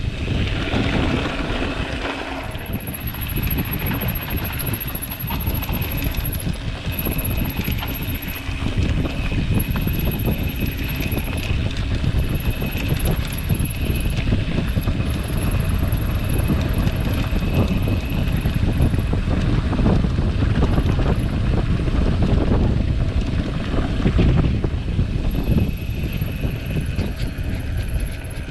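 Wind rushing over the camera microphone of a riding mountain biker, with the rumble and rattle of the bike's tyres and frame on a dirt trail.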